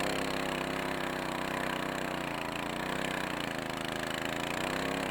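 Engine of a tracked walk-behind tractor running steadily while under way in snow, its pitch dipping and rising slightly a couple of times.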